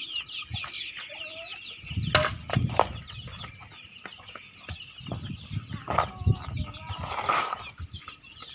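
Chickens clucking, with several dull knocks and scuffs about two seconds in and again around five to six seconds, and a brief rustling burst near the end.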